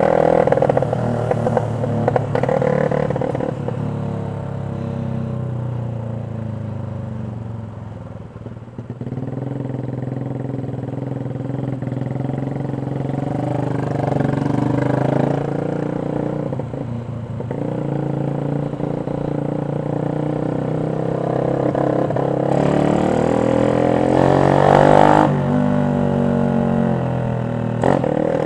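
Yamaha Jupiter MX 135's single-cylinder four-stroke engine through a CLD X Monster aftermarket racing exhaust, ridden on the road. Its note rises and falls with the throttle, easing off about a third of the way in and revving up sharply near the end.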